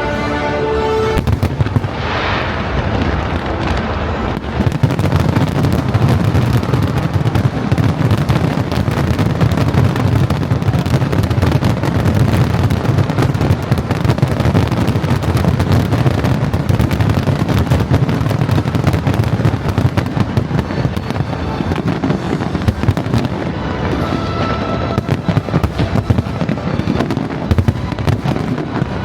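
Fireworks display: a dense, continuous barrage of crackling bursts and booms that grows louder and heavier about five seconds in.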